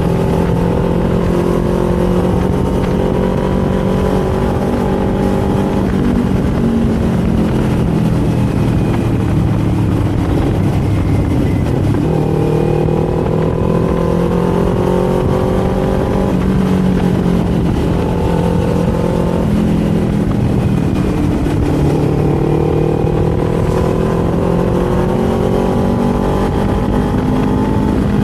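Kawasaki Z400 parallel-twin engine and exhaust heard while riding, its note climbing slowly and falling back several times as the throttle opens and closes. Steady wind and road noise run underneath.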